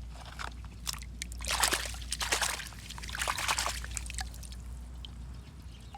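Water trickling and sloshing as toy cars are washed, in two short bursts, with scattered light clicks.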